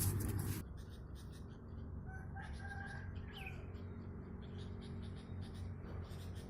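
A burst of noise that cuts off suddenly about half a second in, then bird calls: one drawn-out call with a short glide at its end around the middle, and faint scattered chirps.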